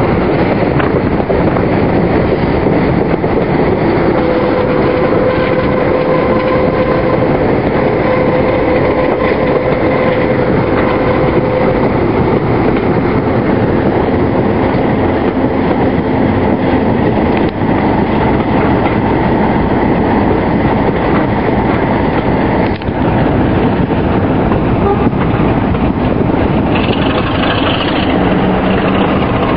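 British Rail Class 33 diesel-electric locomotive 33063 working hard, its Sulzer eight-cylinder engine under power as the train runs. The noise is loud and continuous, and near the end it changes, with a new steady low note coming in.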